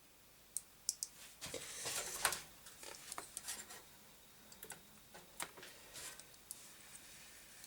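Scattered small clicks and taps of computer parts being handled and removed from the test setup, with a longer rustling scrape about two seconds in.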